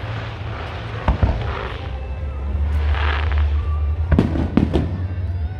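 Aerial fireworks bursting: crackling shells, then a cluster of sharp bangs about four seconds in. Music with a steady low bass plays under it.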